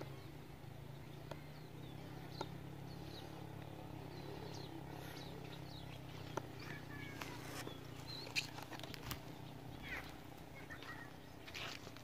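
Small birds chirping and calling in short, scattered notes over a steady low hum, with a few sharp clicks.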